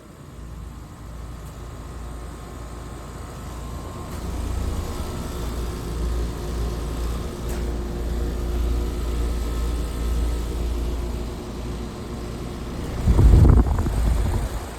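2014 American Standard Silver XI and 2024 Trane XR14 outdoor heat pump units running in heat mode: a steady low hum and fan rumble with a faint steady tone above it. Shortly before the end, a louder rumble swells for about a second and a half.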